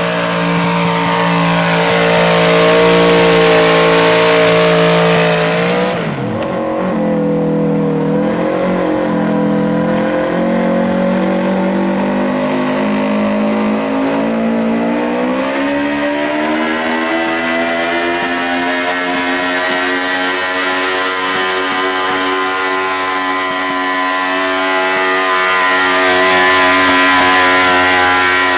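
Modified garden pulling tractor's engine running hard at high revs. About six seconds in the revs drop sharply, then over several seconds they climb back up and hold high.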